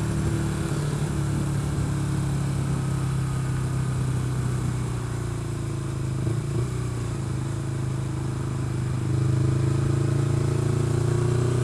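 Motorcycle engine running steadily at about 50 mph, heard from the rider's position. The engine note eases slightly about six seconds in and picks up again about nine seconds in.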